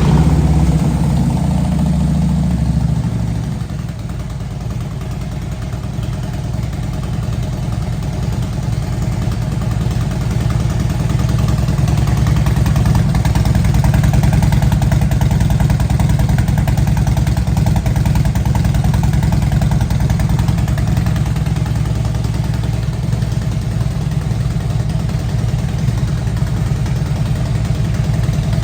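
A 2016 Harley-Davidson Softail Deluxe's Twin Cam 103 V-twin idling through a Vance & Hines exhaust just after a startup. It runs a little faster and louder for the first few seconds, then settles to a steady idle about three seconds in.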